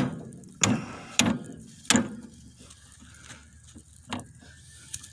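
Hammer blows on the steel parts of a tractor's steering drag link: four sharp strikes about two-thirds of a second apart, then two lighter knocks later on.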